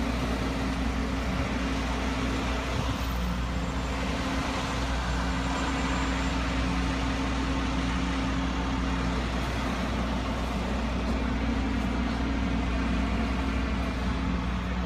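Steady drone of a running vehicle engine, with a constant even hiss over it.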